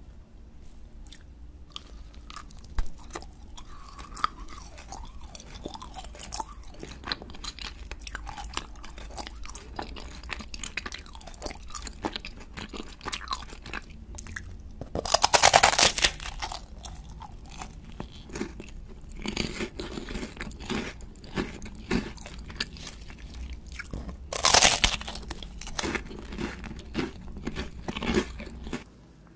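Close-miked eating: chewing a sugar-coated gummy cola bottle with small wet clicks, then two loud crisp bites into a pink fish-shaped wafer, about halfway through and about 25 seconds in. Each bite is followed by crunchy chewing.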